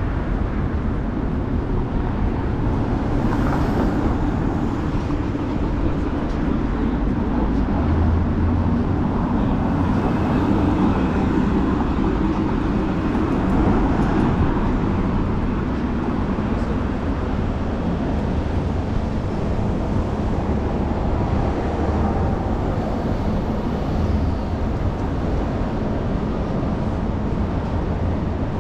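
Steady city street noise heard from a moving bicycle: traffic running alongside under a constant low rushing noise, with no single event standing out.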